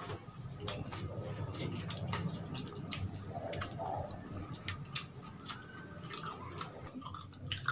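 Close-up eating sounds: chewing with wet mouth smacks and many scattered sharp clicks, and fried chicken being pulled apart by hand.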